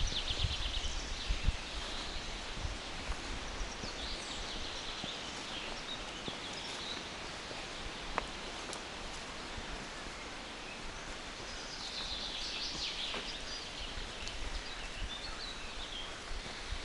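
Songbirds singing in short trilled phrases, several times over, above a steady rustling hiss of the forest; a few soft thuds in the first second or two.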